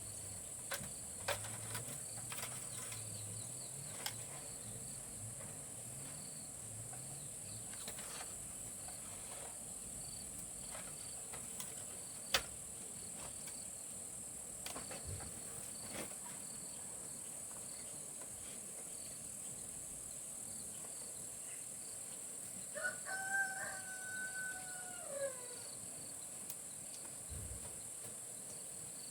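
Steady high-pitched insect drone throughout. A rooster crows once about 23 seconds in, the call held and then falling off at the end. A few scattered clicks and one sharp knock about 12 seconds in.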